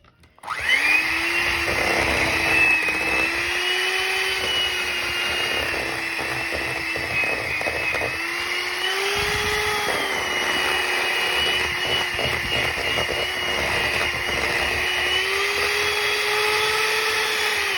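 Electric hand mixer running at speed, beating herbs and garlic into softened butter. Its motor hum starts about half a second in, wavers a little in pitch as it works through the butter, and winds down at the very end, with scattered light clicks throughout.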